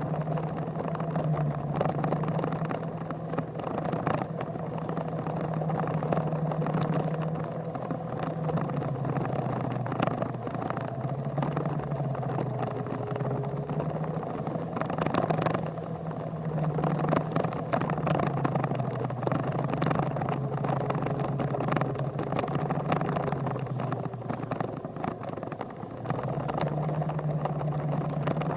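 Motorcycle engine running under way, its note rising and falling several times with the throttle, over steady wind and road noise.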